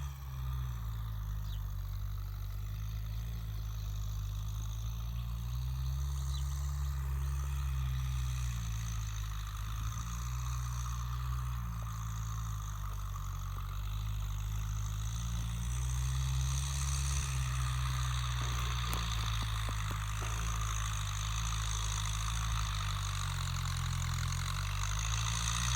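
Kubota M6240SUH tractor's diesel engine running steadily through a stock short exhaust, its pitch sagging and recovering a little as the load changes.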